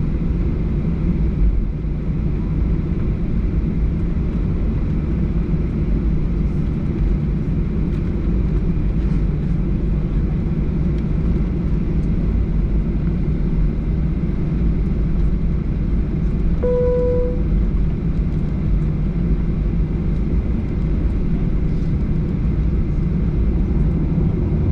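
Steady low rumble of a Boeing 737-800 heard from inside the cabin: its CFM56 engines and the rush of air. About two-thirds of the way through, a single short cabin chime sounds once.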